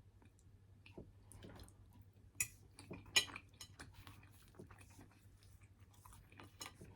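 Close-up chewing and mouth sounds of someone eating, with scattered soft clicks and a couple of sharper ones about two and a half and three seconds in.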